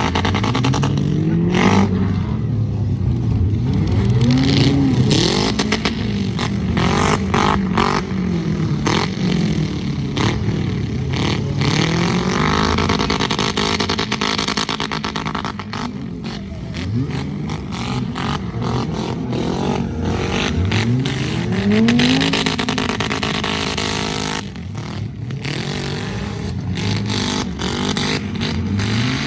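Demolition derby vehicles with their engines revving hard up and down over and over, several at once, with frequent short bangs and knocks of metal hitting metal as they ram one another.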